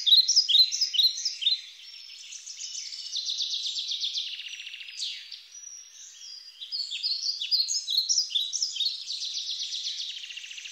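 Birds singing and chirping, several songs overlapping, with quick trills of rapidly repeated notes and short rising and falling chirps.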